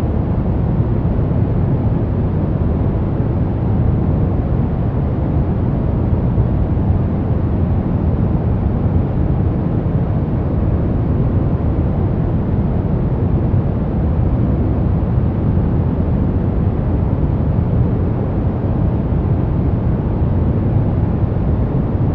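A steady, unchanging noise track of the kind sold as white noise for sleep. Its energy sits mostly in the low end, so it sounds deep rather than hissy.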